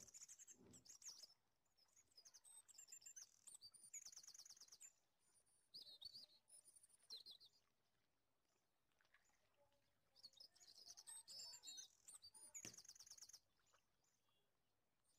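Faint bird chirps and fast high trills, coming in several short bouts.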